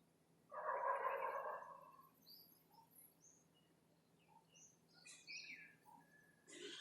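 Birds calling: one harsh, raspy call lasting about a second, starting about half a second in, followed by scattered short, high chirps.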